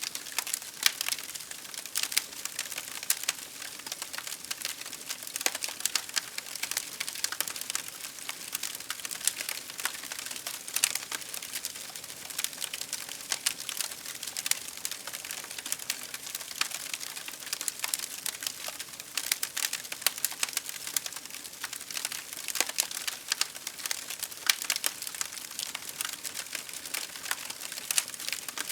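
Wood fire crackling: a steady run of irregular sharp pops and snaps over a soft hiss.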